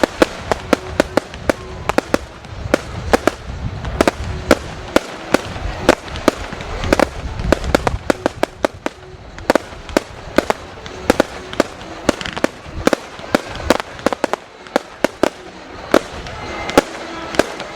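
Fireworks display: a rapid, irregular barrage of sharp bangs and cracks, several a second, over a low rumble that fades after about eight seconds.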